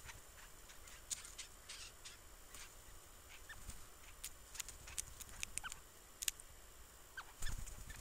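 Scattered sharp clicks and a few short, soft chirps from small woodland birds around a Canada jay feeding from an open hand, with a brief low flutter of wings near the end as the jay takes off.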